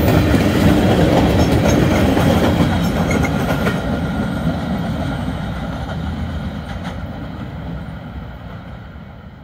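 Freight train of covered hopper cars rolling past, wheels clattering over the rails with a few sharp clanks, the rumble fading steadily as the last car goes by and the train draws away.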